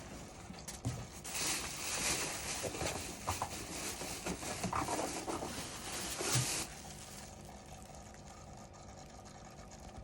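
Rustling and scraping of packaging as a toaster oven is worked out of its box, with a few knocks along the way; it dies down about two-thirds of the way through.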